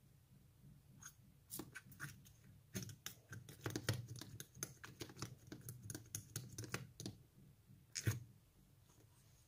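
Slime being worked by hand, giving a quick run of small sticky clicks and pops, thickest from about three to seven seconds in, with one louder pop near the end.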